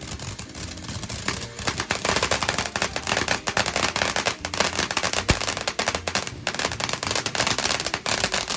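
Consumer fireworks going off in a finale barrage: dense, rapid crackling and popping that builds about a second in and stays loud and continuous almost to the end.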